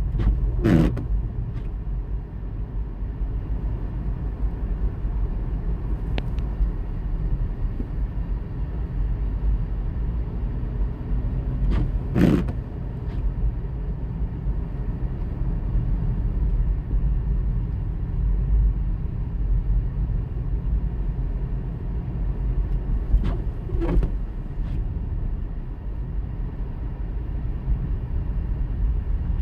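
Car being driven, heard from inside the cabin: a steady low rumble of engine and road noise. Three brief knocks come through it, spread across the stretch.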